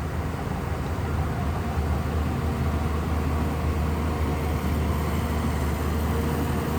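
Large Shantui bulldozer's diesel engine running steadily, a continuous low rumble.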